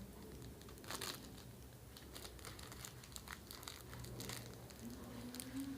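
Plastic food wrappers being crumpled and crinkled by hand: irregular crackles, with louder bursts about a second in and about four seconds in.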